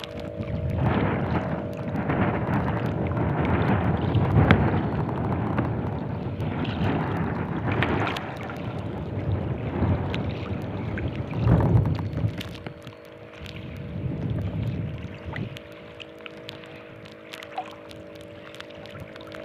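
Strong gusty wind buffeting the microphone over choppy water, easing off about two-thirds of the way through, with a steady faint hum underneath.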